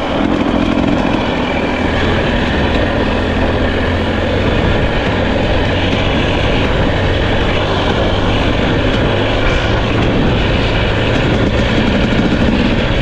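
Two-stroke dirt bike engine running at low, steady revs.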